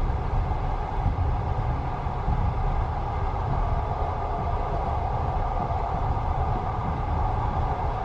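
Steady rumble and hum of a moving sleeper train, heard from inside the carriage.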